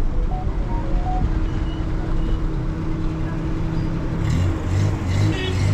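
Motor vehicle engine and road noise in traffic: a steady low rumble that grows louder about four seconds in.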